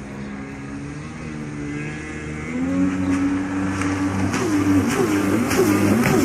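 1990 Kawasaki 650 engine running after a cold start: a steady idle, then revved up about halfway through and blipped up and down several times near the end.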